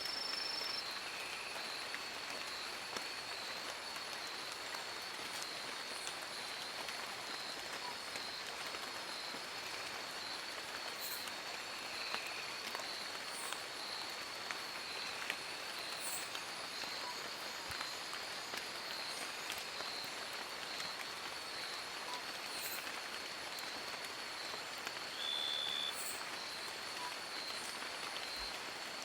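Steady rain falling in a forest: an even hiss with scattered drop ticks. A thin, high, faintly pulsing tone runs throughout. A brief high note comes at the very start and another about 25 seconds in.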